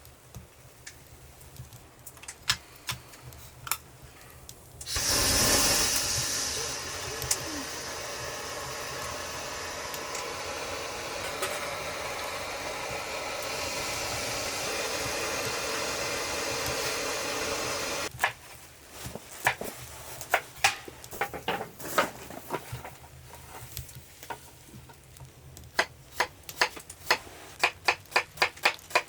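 Cooking hiss that starts with a loud burst about five seconds in, holds steady for about thirteen seconds and cuts off abruptly. Before and after it come light clicks and taps of cookware, with a quick, even run of ticks near the end.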